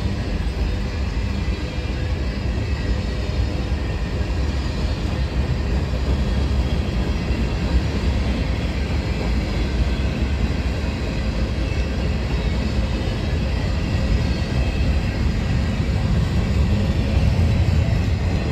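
Freight cars of a passing train rolling by close at hand: a steady rumble of steel wheels on the rails that does not let up.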